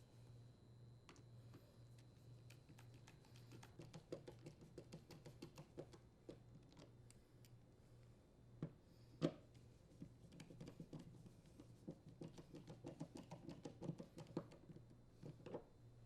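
Faint clicking and ticking of screws being driven with a Phillips screwdriver into the leaf blower's handle, in quick runs, with two louder clicks about halfway through.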